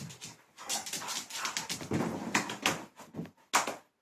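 Dog making a rapid, irregular run of short breathy huffs and snuffling noises while playing. The loudest comes near the end, then the sound cuts off suddenly.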